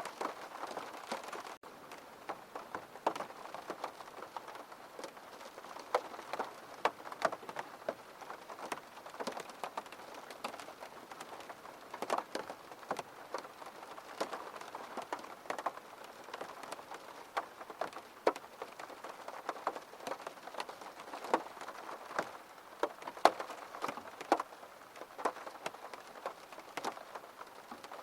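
Steady rain falling, with many separate drops ticking sharply on a surface over the even hiss of the downpour. A momentary break in the sound comes about a second and a half in.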